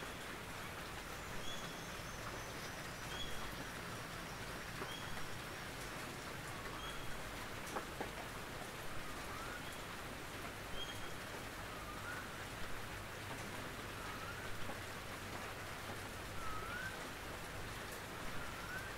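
Gentle rain pattering steadily on a tin roof. A bird calls repeatedly over it: short high chirps about every second and a half in the first half, then short rising notes about every two seconds in the second half.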